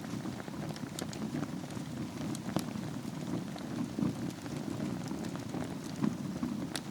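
Wood fire burning in a fireplace bed of glowing embers: a steady low rustling rumble with scattered sharp crackles and pops, one of the loudest pops near the end.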